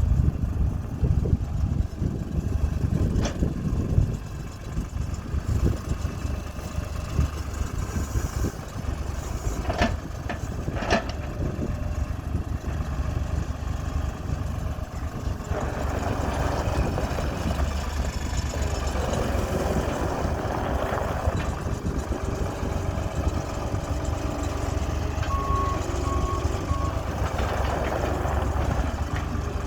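New Holland LX865 skid steer's diesel engine running steadily, getting louder and busier from about halfway through. There are a few sharp clicks in the first half and three short beeps near the end.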